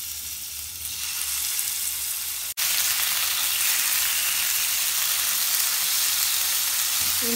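Raw chicken strips sizzling in hot oil in a nonstick frying pan as they are turned with a silicone spatula. The sizzle is softer at first, cuts out for an instant about two and a half seconds in, then comes back louder and steady.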